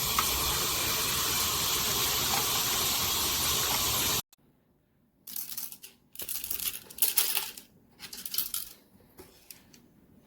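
Shower water spraying steadily, cut off abruptly about four seconds in. After that come a few short, irregular splashes and clatters.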